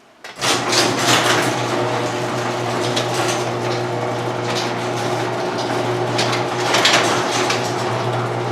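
Noisy LiftMaster garage door opener starting up about half a second in and running steadily as the door opens: a strong motor hum with repeated clacks and rattles from the door.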